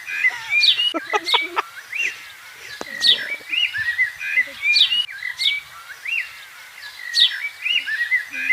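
Songbirds chirping and singing: a phrase of quick high sweeps and short chirps that repeats every second or two.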